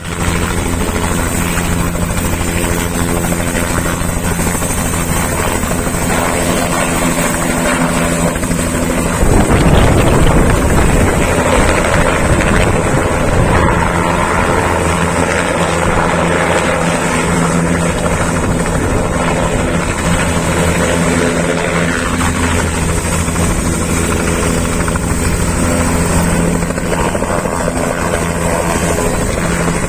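Helicopter arriving, its rotor and engine running with a steady low drone. About nine seconds in the sound turns suddenly louder and rougher for a few seconds, then settles back to the steady drone.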